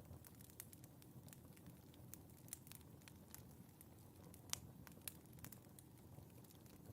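Wood fire crackling in a fireplace: faint, irregular snaps and pops over a low steady rumble of the flames, with one sharper pop about halfway through.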